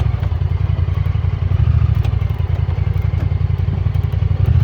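Side-by-side UTV engine running steadily at low speed, a deep pulsing drone, with a few short knocks and rattles from the machine, one about halfway through.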